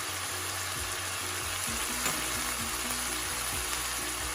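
Chicken mince sizzling in a frying pan, a steady frying hiss, with a light tap about two seconds in.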